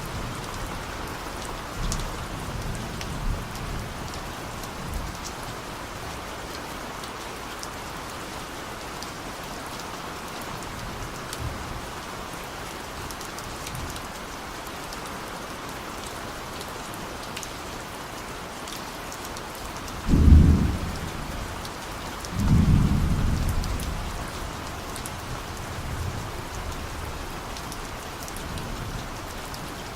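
Steady rain with scattered drop ticks, and distant thunder: two loud low rumbles about twenty seconds in, the second rolling on and fading over a few seconds.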